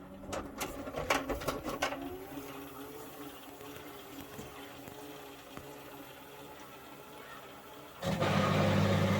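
Indesit washing machine with its covers off: a few clicks, then the drum motor turning in a short spin with a faint wavering whine. About eight seconds in, the drain pump switches on with a loud steady hum to pump out the water the spin has thrown from the laundry.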